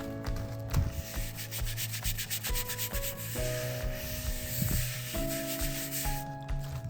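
Stiff scrubbing brush scouring the concrete bowl of a bird bath in quick back-and-forth strokes, a rasping scrape. It stops about six seconds in.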